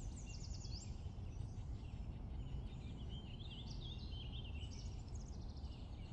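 Songbirds singing outdoors: a quick run of descending notes near the start, then warbling phrases through the middle and again later, over a faint, steady low rumble.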